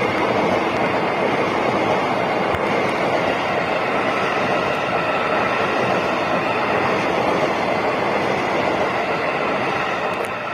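Electric commuter train passing close at speed: a steady, loud noise of steel wheels running on the rails.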